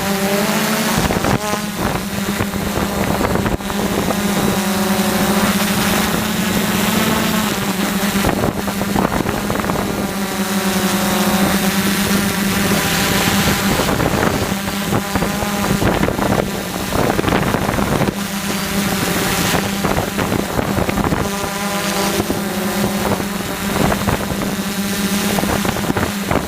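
DJI F450 quadcopter's four motors and propellers buzzing in flight: a steady drone whose higher tones bend up and down as the throttle changes, over a rush of wind.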